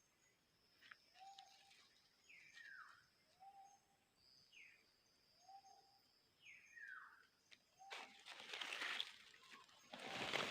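A bird calling repeatedly, about every two seconds: a short low note and then a falling higher note, over a faint steady high whine. From about eight seconds in, louder rustling noise takes over.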